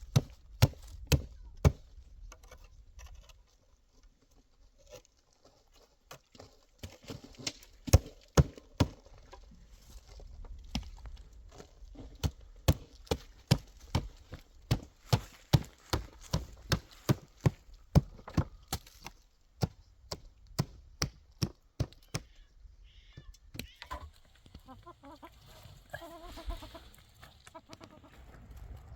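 A run of sharp knocks or blows, mostly about two a second with short breaks, like something being struck or chopped over and over. Near the end the knocks stop and pitched calls are heard.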